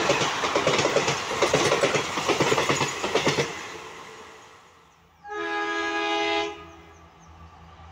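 Passenger coaches rushing past at speed, wheels clattering rhythmically over the rail joints, fading out as the end of the train goes by. About five seconds in comes one horn blast of a little over a second from an approaching diesel locomotive, with its engine's low hum growing near the end.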